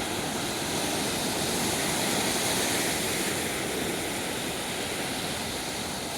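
Ocean surf washing onto the beach: a steady, continuous rushing noise with no distinct breaks.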